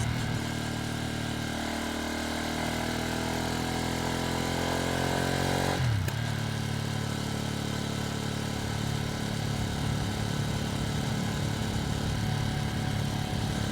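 Ducati Streetfighter V2S V-twin engine heard from on board the moving motorcycle, the engine note climbing steadily as it pulls for about six seconds. The revs then drop sharply and it runs on at a steadier, lower note. The bike is being run in.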